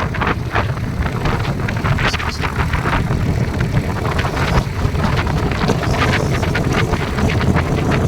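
Wind buffeting the microphone: a heavy, steady low rumble with irregular gusty crackles.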